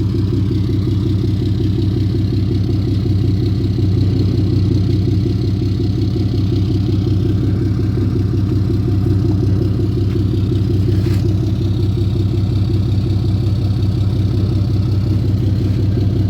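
A vehicle engine running at a steady, even pitch with a low hum, with one faint click about eleven seconds in.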